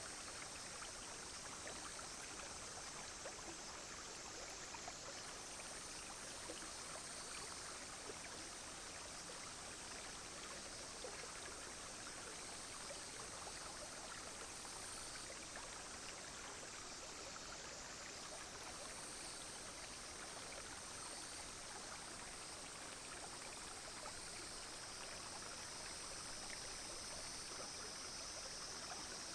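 Clear brook flowing steadily, with a continuous high drone of cicadas and other insects over it that swells and fades every few seconds.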